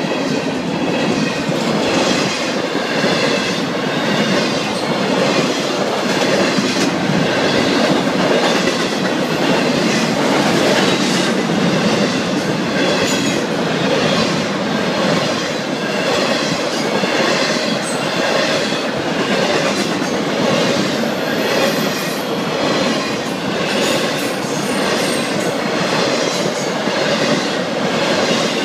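Double-stack intermodal freight cars rolling past steadily: a continuous rumble of steel wheels on rail with a regular clickety-clack as wheel sets cross rail joints.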